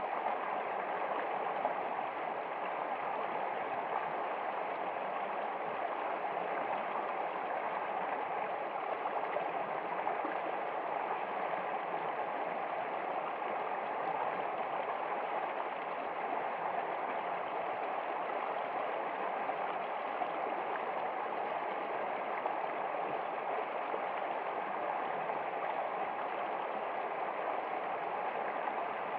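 Steady running water, a continuous babbling flow like a small stream, unchanging throughout.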